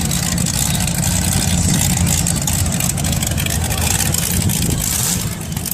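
Several demolition derby cars' engines running and revving together, with a steady low drone and a constant rattle and clatter over it.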